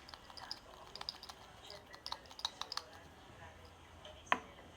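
A spoon clicking and tapping lightly and irregularly against a bowl while stirring slime mixture, with one sharper click about four seconds in.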